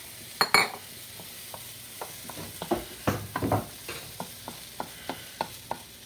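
Onions sizzling in a frying pan while a utensil stirs and scrapes them, with repeated sharp clicks of the utensil on the pan and louder clatters about half a second in and around three seconds in.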